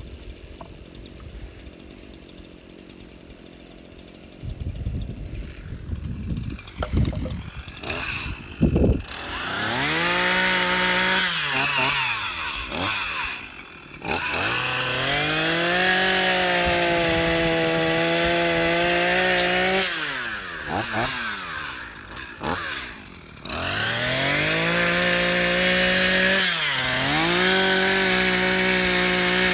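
Chainsaw cutting brush and branches, its small two-stroke engine revving up to full speed, holding there and falling back several times as the trigger is worked. Before it gets going there are a few sharp knocks and a low rumble.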